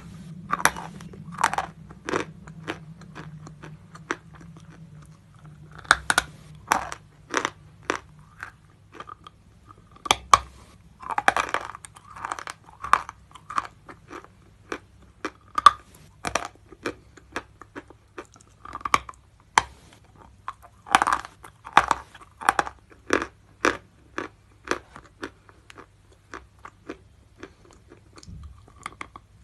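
A lump of natural chalk being bitten and chewed close to the microphone: dry, crisp crunching that comes in several runs of sharp cracks separated by short pauses.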